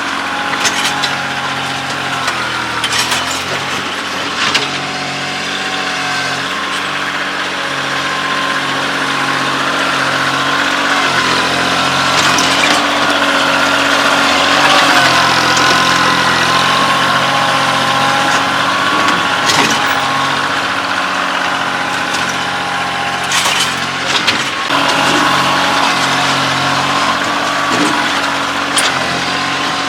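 Kioti CK2610 compact tractor's three-cylinder diesel engine running while it works clearing rocks, its pitch shifting as the load and throttle change. Short sharp knocks come through it every few seconds.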